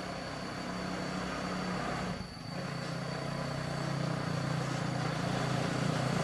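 A motor vehicle engine running with a steady low hum. It dips briefly about two seconds in, then grows gradually louder.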